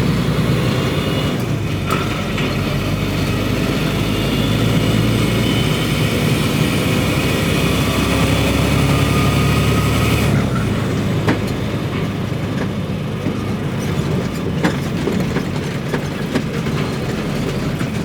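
Semi truck's diesel engine pulling under load through a gear, its note rising for about ten seconds, then dropping suddenly as the driver comes off the power to shift. A few sharp clicks follow.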